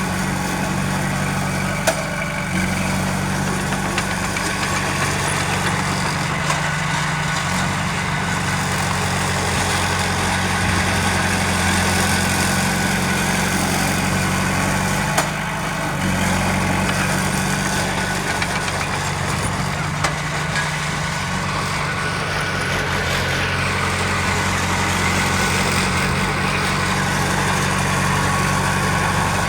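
Heavy earthmoving machine's diesel engine running steadily at a low, even hum, with a few sharp knocks now and then.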